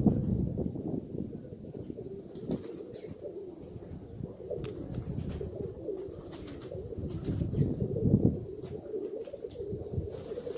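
Nikolayev pigeons cooing, a low wavering warble that goes on throughout, with a few faint clicks.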